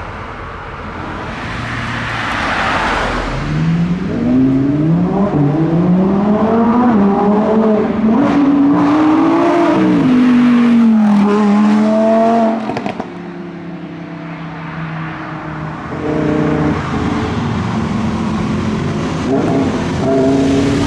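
A car engine accelerating away, its revs climbing in several short rises, then holding and easing off before the sound drops away suddenly. A second, quieter engine runs steadily near the end.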